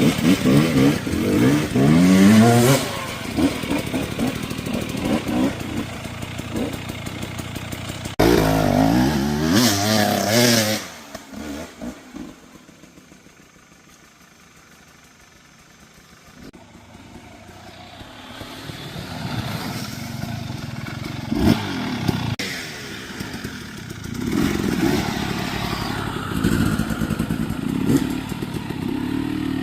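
Two-stroke dirt bike engine revving up through rising pitches twice. It then dies down to faint about halfway through and grows louder again, running steadily with some clatter.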